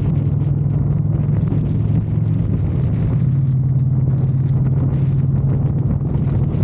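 Motorcycle engine running steadily under way, a constant low drone at an even speed.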